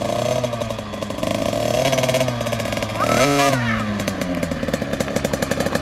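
Two-stroke dirt bike engine running under a rider, revving up sharply about three seconds in and dropping back, then running on with a rapid pulsing beat.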